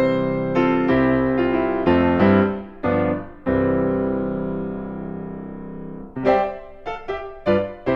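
Background piano music: sustained chords, one long held chord fading away over a few seconds, then short repeated notes starting about six seconds in.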